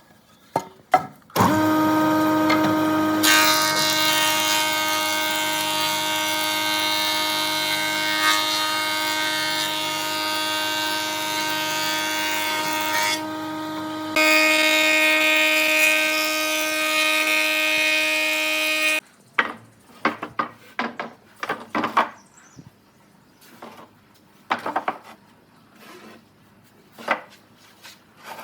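Woodworking power tool running steadily under load, cutting or shaping wood, then switched off; after it stops, scattered knocks and taps of wood being handled.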